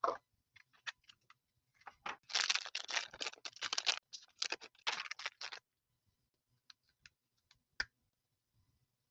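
Small plastic toy packaging being handled and opened by hand: a few separate clicks, then a dense run of scratchy clicking and crinkling for about three and a half seconds, then a few sharp clicks near the end.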